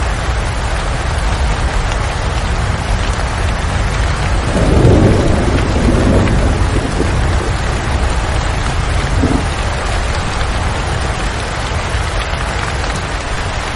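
Steady heavy rain with a low rumble of thunder swelling about four to five seconds in and fading over the next few seconds.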